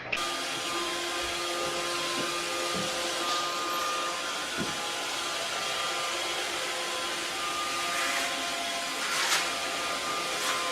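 Steady whir of a small electric motor with rushing air, holding a few constant tones, with a brief louder swell about nine seconds in.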